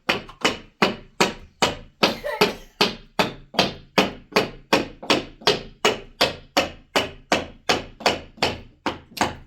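Rapid, evenly spaced striking blows, about three a second and some two dozen in all, that stop abruptly.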